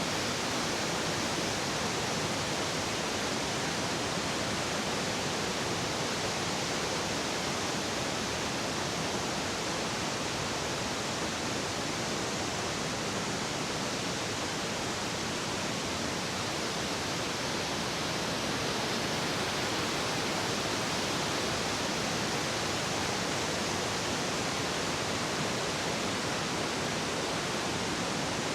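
Large waterfall's falling water: a steady, even rushing hiss with no break.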